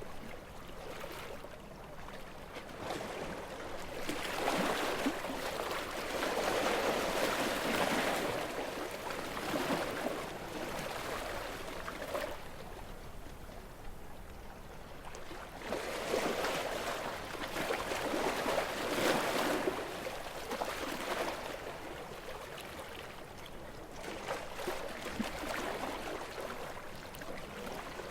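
Gentle sea waves washing ashore and drawing back, three slow swells with a fizzing wash between them.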